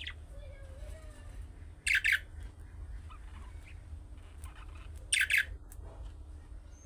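Budgerigars calling: two loud, harsh squawks, each a quick double, about three seconds apart, with faint chatter in between.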